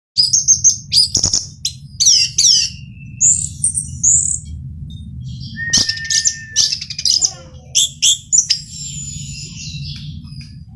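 Male orange-headed thrush singing: a quick run of varied whistles, trills and chirps broken by short pauses, over a steady low background rumble.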